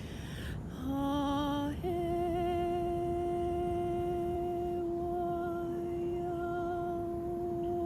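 A woman's voice humming: a short, wavering lower note about a second in, then a step up to a higher note held long and steady.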